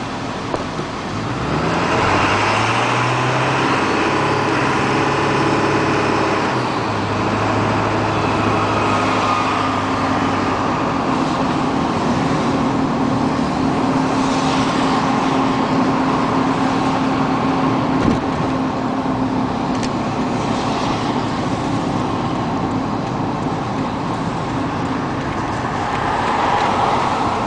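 Ford 7.3L Power Stroke turbodiesel running through a 4-inch turbo-back exhaust, with its turbo whistling. The truck is cruising at part throttle: the engine pitch rises as it pulls away about a second or two in, then holds steady.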